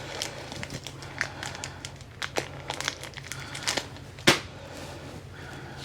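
Small clicks and rustling of screws and hand tools being handled at a storm door hinge, with one sharp click about four seconds in, over a steady low hum.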